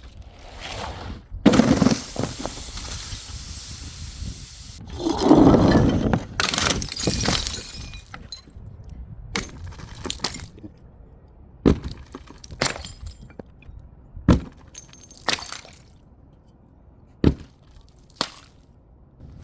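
Glass smashing: a loud crash about a second and a half in and a second one about five seconds in, each followed by a spread of breaking noise, then single sharp clinks of glass pieces every second or so.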